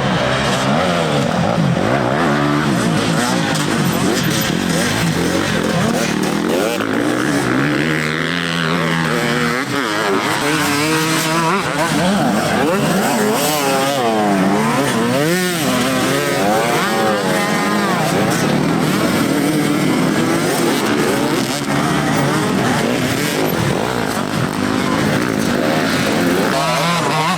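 Several motocross bikes racing, their engines revving up and down in overlapping rising and falling whines as riders accelerate and shift.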